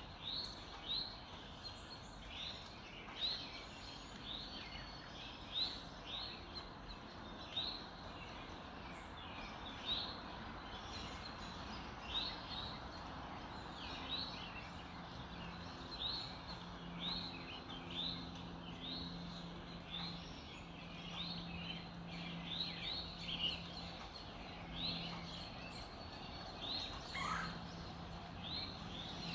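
Songbirds chirping: a quick run of short, high chirps, one every half second or so, over a steady background hiss. A low steady hum joins in about halfway through.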